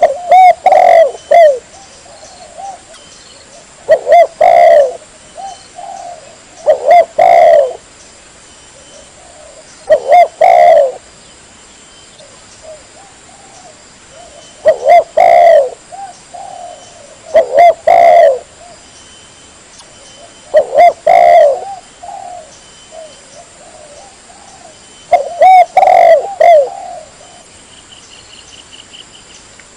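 Spotted dove (tekukur) cooing its song, a phrase of several coos repeated about every three seconds with short pauses between. This is a lure call, played to draw wild doves in.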